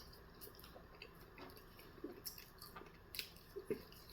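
Faint chewing close to the microphone: scattered soft wet mouth clicks and a few small low smacks.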